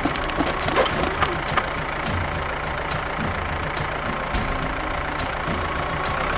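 A vehicle engine idling steadily, with a few sharp knocks in the first second or two.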